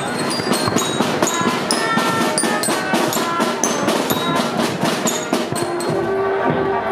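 Drums playing a fast, steady beat of about five strikes a second, with short high ringing notes over the top.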